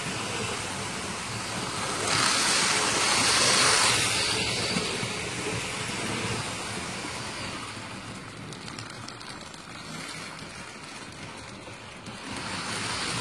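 Motorised toy train engines running along plastic track, a steady whirring rush of small motors and wheels that grows louder about two seconds in, fades, and swells again near the end as the train passes close by.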